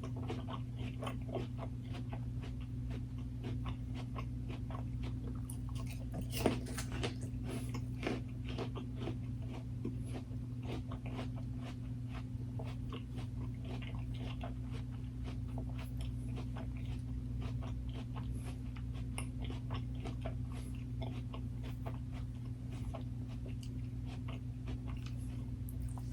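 Close-up eating sounds: crunchy biting and chewing in a run of irregular crackles, with one sharper crunch about six seconds in, over a steady low hum.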